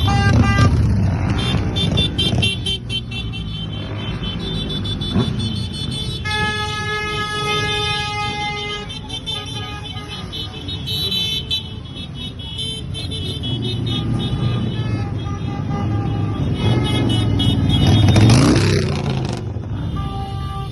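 Motorcycles rumbling past in a procession, with a horn sounding for a few seconds about six seconds in and other shorter toots. Near the end a louder bike swells up and passes close.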